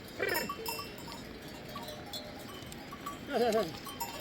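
Sheep bells ringing in a flock as the animals move, with sheep bleating twice: a short bleat just after the start and a louder, quavering bleat a little after three seconds in.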